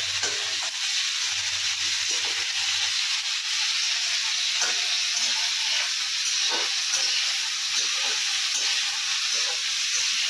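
Cut okra sizzling as it fries in hot oil in a steel kadhai, with a steady hiss. A steel spatula stirs it, scraping and clinking against the pan now and then.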